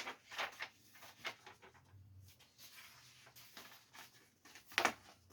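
Soft, irregular clicks and rustles of small objects or paper being handled on a desk, with a sharper click near the end.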